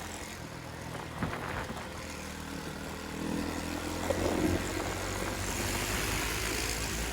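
Motorcycle engine running steadily while riding, with rushing wind noise that grows louder in the second half.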